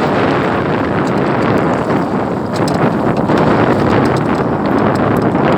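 Strong wind blowing on the microphone, a loud, steady noise without let-up.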